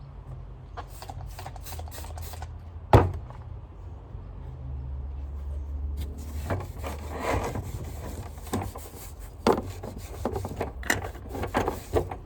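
Vacuum cleaner part being wiped clean with a cleaning wipe: a run of short rubbing strokes, a sharp knock about three seconds in, then denser rubbing and handling clicks, over a steady low hum.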